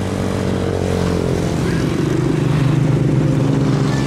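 Motorcycle engine running while riding, its note shifting slightly and growing a little louder.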